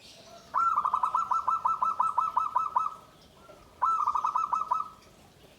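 Zebra dove (perkutut) cooing: a long run of quick, clipped coo notes lasting over two seconds, then, after a short pause, a shorter run of about eight notes.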